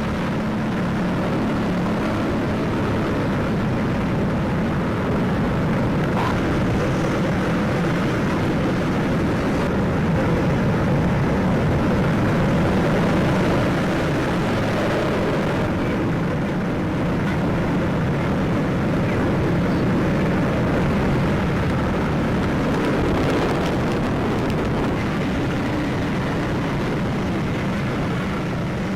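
Steady roar of strong wind and rough sea surf, swelling a little now and then.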